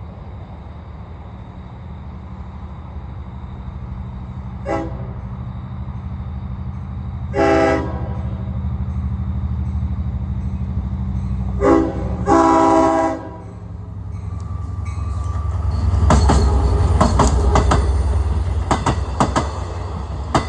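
Long Island Rail Road diesel train approaching and passing, its horn sounding four blasts (a short one, a longer one, then a short and a long) in the warning pattern for a grade crossing. The engine rumble then swells as the train goes by, with rapid clicking of wheels over rail joints.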